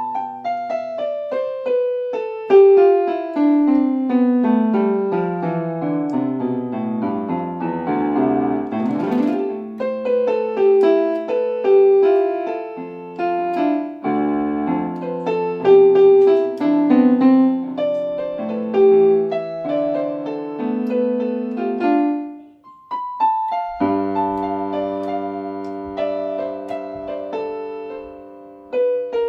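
Piano-type keyboard being played: a long descending run of notes, then a melody over lower notes, a brief break about 22 seconds in, then held chords.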